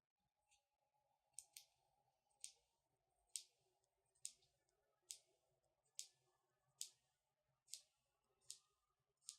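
Long natural fingernails clicking and tapping in a slow, steady rhythm, a little under one sharp click a second.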